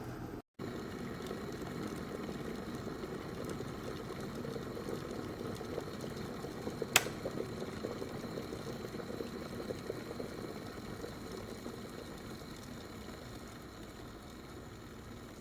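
Glass electric kettle heating water: a steady rumbling, bubbling hiss, with a single sharp click about seven seconds in. The sound eases off slowly near the end.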